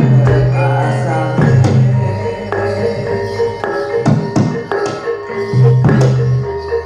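Javanese gamelan music accompanying a jathilan dance: metallophones repeat a ringing figure over sharp drum strokes, with deep gong tones sounding at the start and again near the end.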